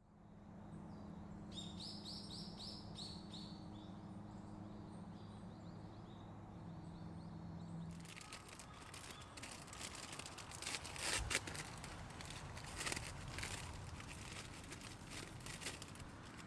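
A bird chirps a quick run of short falling notes about two seconds in, over a low steady hum. About eight seconds in the sound changes to a dense hiss with scattered sharp crackles and taps.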